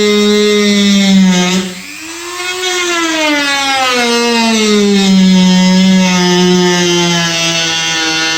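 Dremel rotary tool with a cutting disc whining as it cuts the plastic kayak hatch. About two seconds in the pitch and loudness drop sharply as the disc slows under load, then the motor speeds back up and its pitch slowly sinks as the cut goes on.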